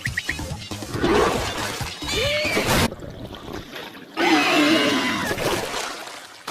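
Cartoon soundtrack: loud shatter-like and splashing noises mixed with music, with short gliding squeaky cartoon-character vocalisations about two seconds in and again past the middle.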